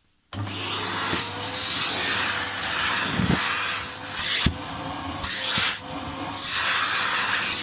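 Vacuum cleaner running, switching on abruptly just after the start, its airflow changing several times as the nozzle is worked over dirt, with a couple of sharp knocks of the nozzle against something.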